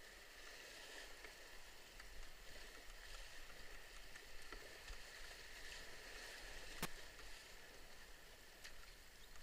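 Steady rush of river water around a moving canoe, with faint occasional paddle strokes and one sharp click about seven seconds in.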